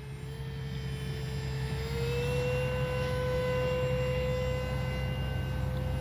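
HobbyZone Aeroscout electric RC plane's motor and pusher propeller whining under power as the plane goes around instead of landing. The pitch steps up slightly about two seconds in and then holds steady, over a constant low hum.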